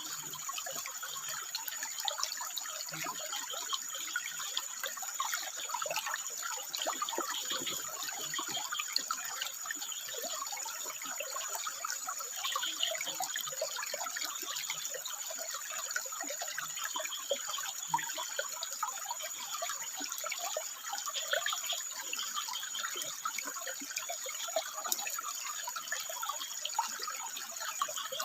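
Water trickling and splashing over rocks in a steady, even flow of small splashes, with a thin high-pitched steady tone above it throughout.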